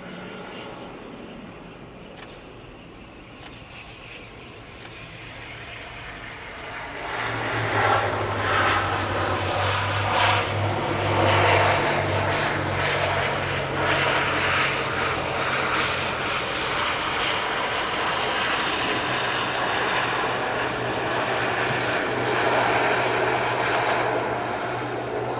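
ATR 72-600 twin-turboprop airliner landing: engine and propeller drone with a steady low hum, growing much louder about seven seconds in as the aircraft comes close.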